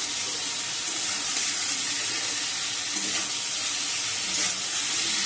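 Small mourola fish in an onion, tomato and spice-paste masala sizzling in a hot metal wok while a spatula stirs it gently, a steady hiss: the masala being sautéed (kosha) with the fish.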